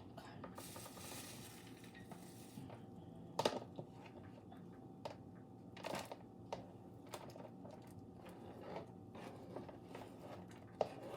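Kitchen handling of a bowl and utensils: a rustling for about two seconds, then scattered knocks and clinks, the loudest about three and a half seconds in.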